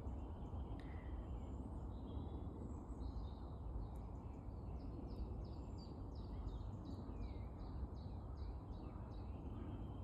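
Woodland birds singing over a steady low rumble of background noise. About halfway through, one bird gives a run of short, evenly repeated notes, roughly three a second, for several seconds.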